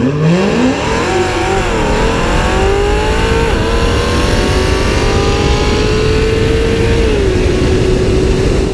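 Cadillac CTS-V's V8 launching at full throttle down the dragstrip, its pitch sweeping up and dipping at gear changes about two and three and a half seconds in, then dropping once more near the end, over a steady rush of wind and tyre noise.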